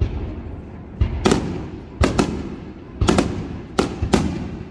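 Starmine fireworks barrage: aerial shells bursting in quick succession, sharp bangs about every half second to a second, some in close pairs, each trailed by a low echoing rumble.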